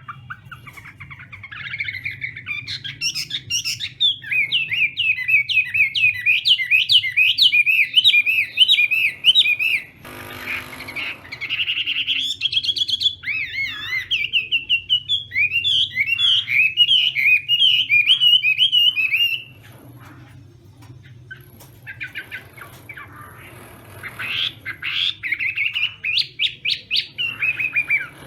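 Chinese hwamei singing in long, rapid runs of loud, quickly repeated whistled notes, broken by a brief pause past the middle before it starts again.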